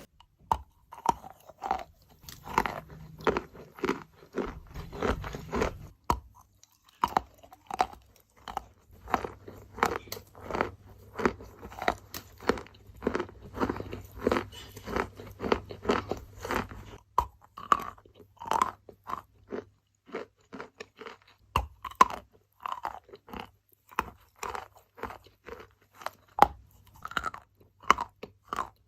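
Wet, grainy sand being crushed and crumbled in a rapid series of short, gritty crunches, a few a second, with brief pauses.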